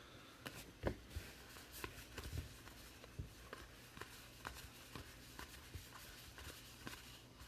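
Faint handling of trading cards: light rustling with scattered soft clicks and flicks as cards are slid and flipped through a pack one at a time.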